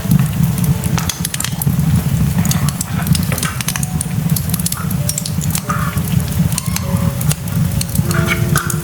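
Food cooking in a pan: dense crackling and popping over a steady low rumble, with a few faint clinks.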